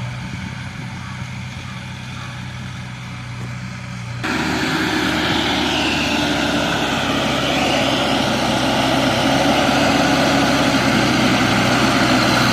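Sonalika DI 750 tractor's diesel engine running hard under load as it climbs a steep slope: a steady drone that jumps abruptly louder about four seconds in and then grows slightly louder toward the end.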